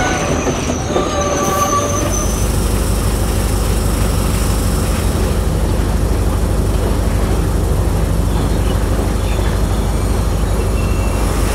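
A passenger train's wheels squeal and clatter on the track for about the first two seconds. A stationary diesel commuter train then idles with a steady, even low hum.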